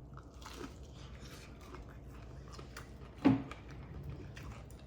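Quiet eating sounds as a piece of fried fish is tasted, with faint small clicks and one short, sharp knock about three seconds in, like a fork or plate being set down.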